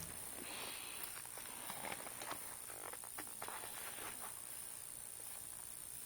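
Faint background with a steady high-pitched whine and a few scattered light clicks and taps.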